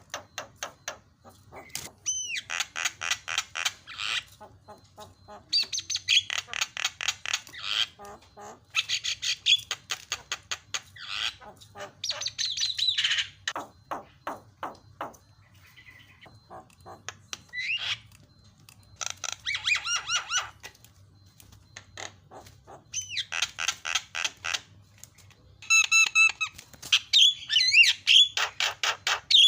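Javan myna singing in bursts of rapid, harsh chattering notes a second or two long, separated by short pauses, with clearer whistled notes near the end.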